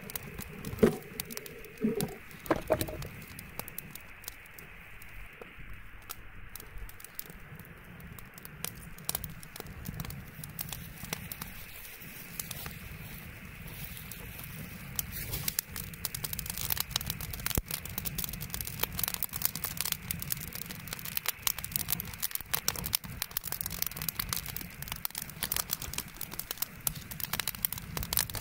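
Wood bonfire crackling, with sharp pops and snaps that grow more frequent from about halfway through, and a few louder knocks in the first seconds.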